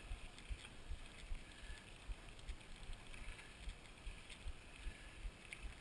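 Wind buffeting a camera microphone while a mountain bike rolls along a dirt trail, with uneven low thumps and faint scattered ticks and rattles.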